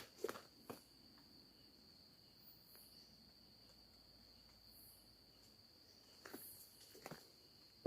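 Near silence with a steady high-pitched cricket trill in the background. A few faint rustles or steps come just after the start and again near the end.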